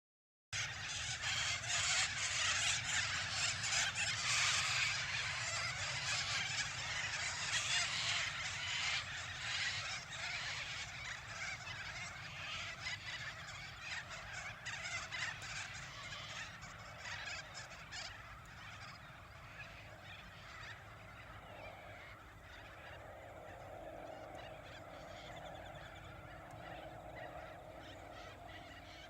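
A large flock of birds calling together in a dense, overlapping chorus, loudest for the first several seconds and then fading gradually.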